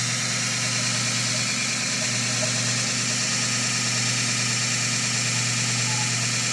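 Fein Grit GX75 belt grinder with its GXC centerless grinding attachment running steadily: an even motor hum with a hiss over it.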